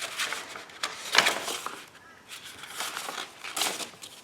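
Sheets of acrylic-painted copy paper rustling as they are handled and moved, in a few swishes, the loudest about a second in.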